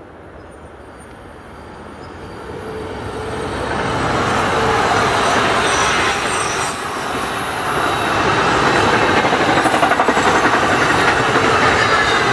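NJ Transit Arrow III electric multiple-unit commuter train approaching and passing: wheels running on the rails grow louder over the first few seconds as it nears, then hold steady and loud as the cars go by.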